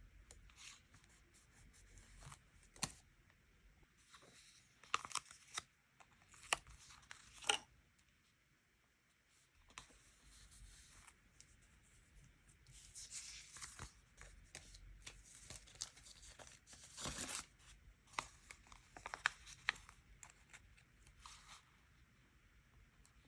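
Stickers peeled off their backing sheets and paper handled on a desk: a run of short, crackly peels, rustles and small taps, with a lull about eight to ten seconds in.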